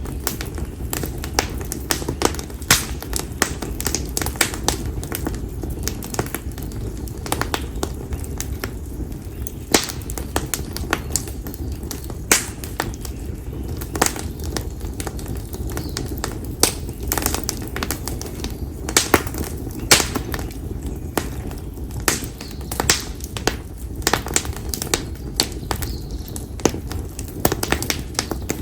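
Split konara oak (Quercus serrata) firewood burning in an open campfire, crackling and popping at irregular intervals over a steady low rumble.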